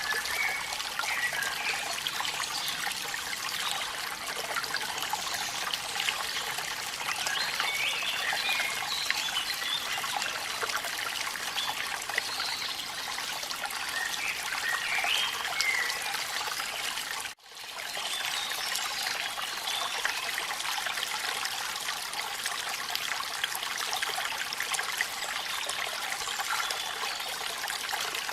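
Steady rush and trickle of falling water from a waterfall in rain, with faint high chirps now and then in the first half. The sound cuts out for an instant about seventeen seconds in.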